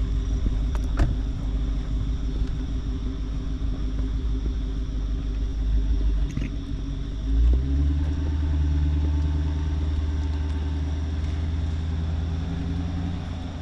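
Supercharged 6.2-litre Hemi V8 of a Dodge Redeye Hellcat running with a heavy low rumble. About seven seconds in it swells briefly, then settles into a steady, even drone.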